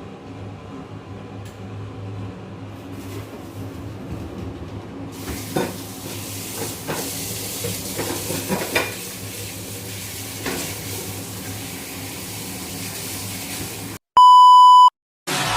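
Food frying in a pan: a low hum, then from about five seconds in a steady sizzle with a utensil stirring and scraping now and then. Near the end, a loud single-pitched beep lasting under a second.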